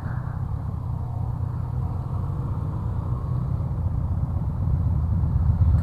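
Motorcycle engine running at low speed on a slow ride, a steady low rumble that grows a little louder toward the end.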